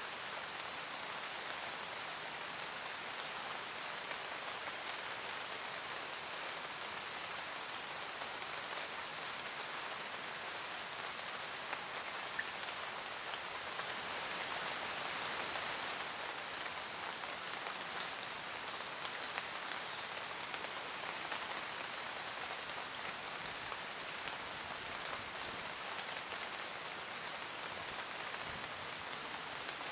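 Steady forest rain pattering on leaves, an even hiss of many drops with fine individual ticks, swelling slightly about halfway through.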